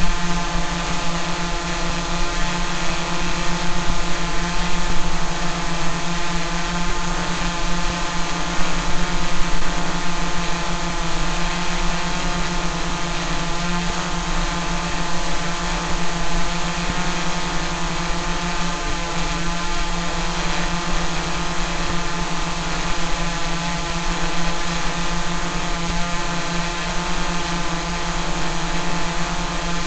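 Quadcopter drone's electric motors and propellers running at a steady speed: a continuous buzzing hum that holds one pitch.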